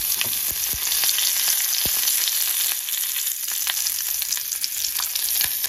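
Curry leaves and fennel seeds frying in hot oil as a tempering: a steady sizzle with scattered pops and crackles.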